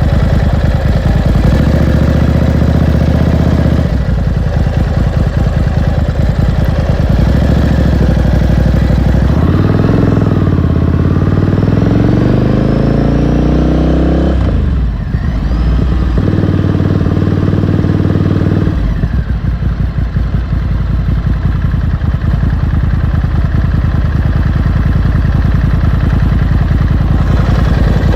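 2018 Ducati Scrambler Sixty2's 399 cc air-cooled L-twin engine running under way. From about ten seconds in it rises steadily in pitch for about five seconds, dips briefly, then runs steady again.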